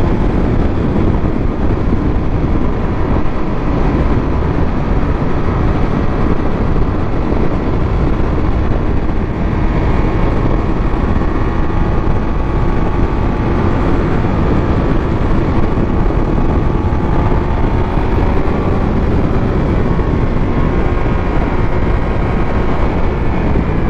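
Motorcycle being ridden at speed: heavy, steady wind rush over the microphone with the Triumph Speed Triple 1200 RS's three-cylinder engine running underneath, its pitch drifting slightly.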